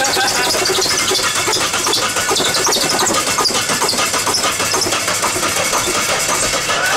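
Saab turbocharged four-cylinder engine running loud and uneven with Flex Seal in its crankcase in place of engine oil.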